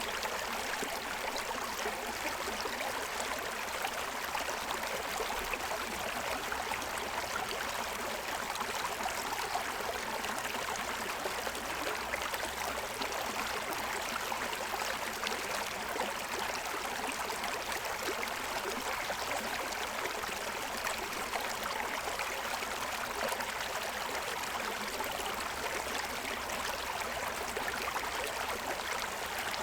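A stream running over a rocky bed, a steady rushing and splashing of water over the stones.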